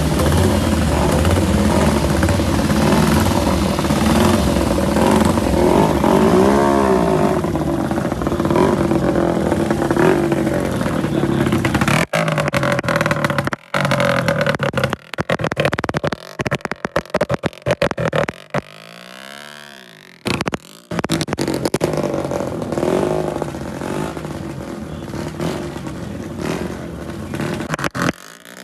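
Vintage Grand Prix racing motorcycle engines running and being revved up and down, with a clear rise and fall in revs about six seconds in. The sound breaks off briefly several times in the second half.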